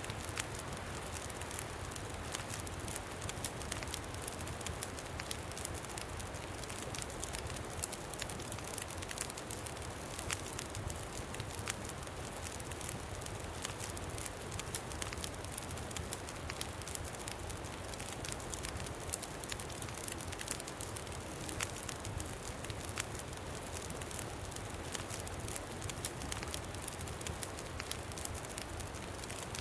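Campfire crackling, with frequent small sharp pops, over a steady low wind rumble.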